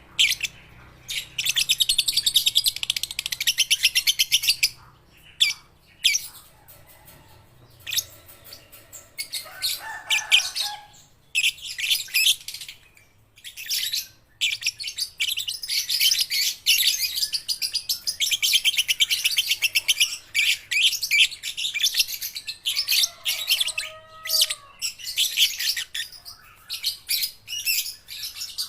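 Young lovebirds chirping in long runs of fast, high, closely repeated chirps with short breaks between runs, and a few lower calls now and then.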